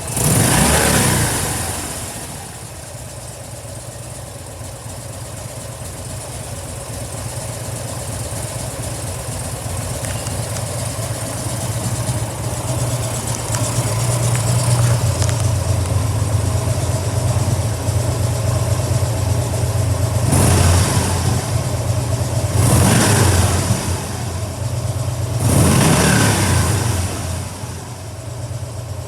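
Harley-Davidson FXDL Dyna Low Rider's 1580 cc V-twin idling, with a short rev of the throttle at the start and three more short revs a few seconds apart in the last third.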